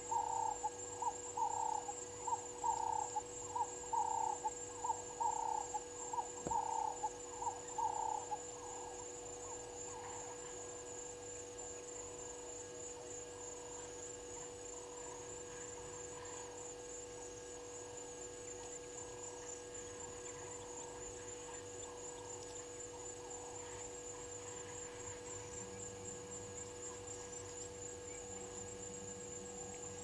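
A bird calling a steady series of mid-pitched notes, about two a second, which stops about eight seconds in and is followed by fainter scattered calls. A steady electrical hum and a faint, high, pulsing buzz run underneath.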